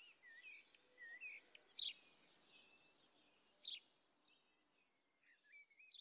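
Faint birdsong: birds chirping in short curving notes, with two sharper, louder calls about two and four seconds in.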